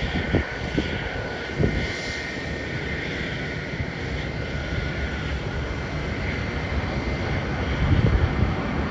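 Distant jet airliner engines giving a steady whine with a low rumble, with wind buffeting the microphone.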